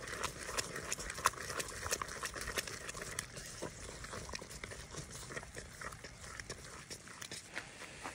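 Wood fire crackling with many irregular sharp pops, the loudest about a second in, over a low rumble.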